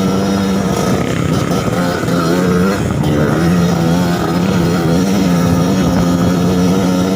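Suzuki TS 125 two-stroke single-cylinder trail bike engine running under throttle, its pitch wavering up and down about one to three seconds in, then holding steady.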